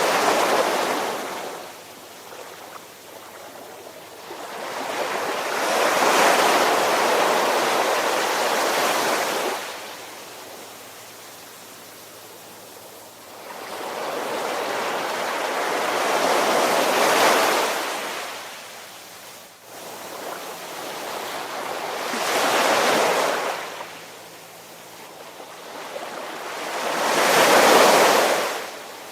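Ocean waves surging in and washing back, the rush of water swelling and fading in slow waves about every five to six seconds.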